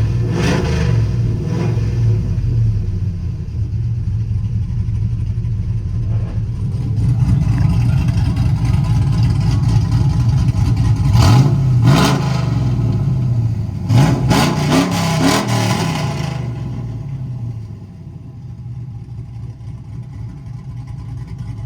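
Cammed pickup truck engine running through an exhaust with the mufflers removed (high-flow cats and an X-pipe), idling and being revved a few times past the middle. It then settles back to a quieter idle for the last few seconds.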